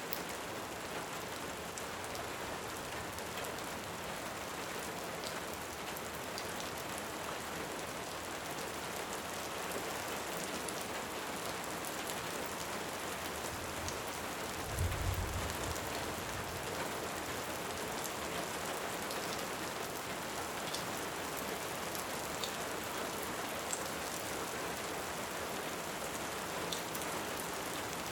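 Steady heavy rain hiss with scattered small pops of a crackling wood fire. About halfway through there is one brief low rumble of distant thunder.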